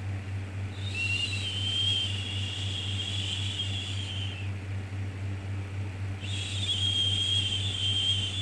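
Two long shushing 'shhh' sounds of about three and a half seconds each, with a slightly whistly edge, the first starting about a second in and the second about six seconds in. A steady low hum runs underneath.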